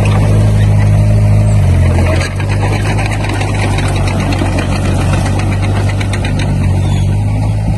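Heavy-equipment diesel engine running steadily; its note drops briefly about two seconds in, then settles, with a light metallic clatter over it.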